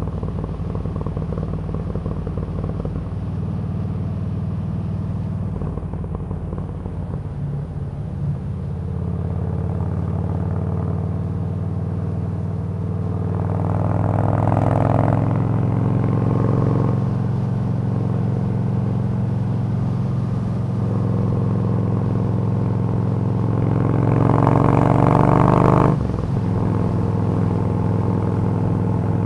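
Yamaha V-Star 1300's V-twin engine running at road speed under the rider. Its note swells and rises about halfway through, and again near the end, before dropping off sharply.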